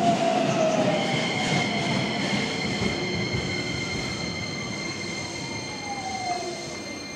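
Keisei 3100-series electric train pulling into the platform and braking: loud rolling rumble of the cars, with a high steady squeal from about a second in. A motor whine falls in pitch as the train slows, and the sound fades gradually.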